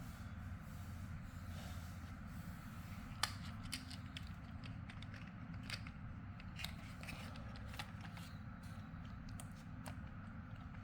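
Small plastic building blocks clicking as they are handled and snapped together: a scattered series of sharp clicks, the loudest about three seconds in, over a steady low hum.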